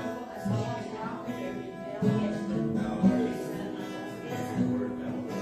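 Music led by an acoustic guitar, with held notes and chords.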